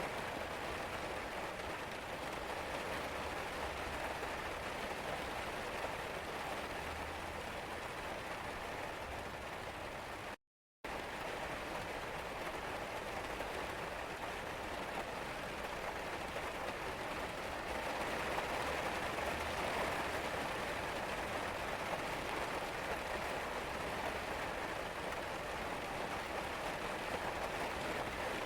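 Steady rain falling and pattering on surfaces. The sound cuts out completely for a split second about ten seconds in.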